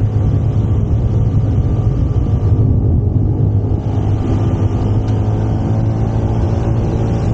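Yamaha SMAX 155 scooter's single-cylinder four-stroke engine running steadily while riding at road speed.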